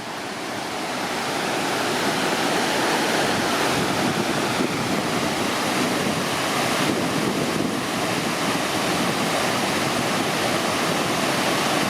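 Steady roar of a large waterfall dropping about 110 feet into its basin, swelling a little over the first couple of seconds.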